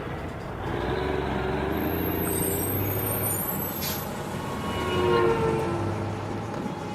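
Truck engine running steadily, with a sharp click about four seconds in.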